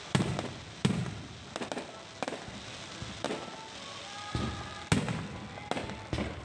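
Fireworks exploding in a low-altitude display: sharp bangs about once a second, with crackling between them.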